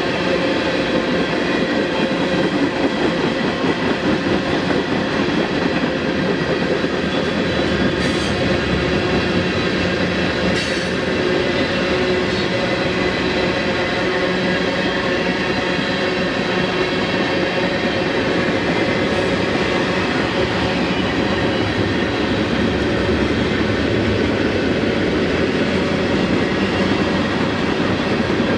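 Mixed freight train rolling past: a steady, loud rumble of wheels on rail with sustained squealing tones from the wheels, and a few sharp clicks about a third of the way through.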